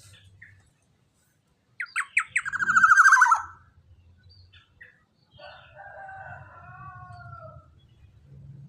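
Young black-naped oriole (kepodang emas) calling. A few sharp notes come first, then a loud buzzy call that falls in pitch over about a second. A fainter, longer buzzy call follows about five and a half seconds in.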